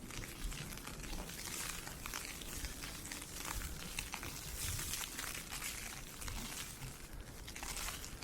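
Ice pellets ticking on an umbrella in a dense, irregular crackle, with footsteps in snow underneath.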